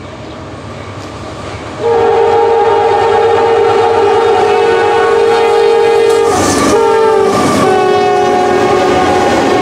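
Diesel freight locomotive air horn sounding a long blast that starts about two seconds in, over the rumble of the passing train. The horn's pitch drops a step about seven seconds in as the locomotive goes by.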